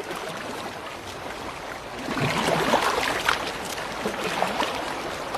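Sea water splashing and lapping, louder from about two seconds in.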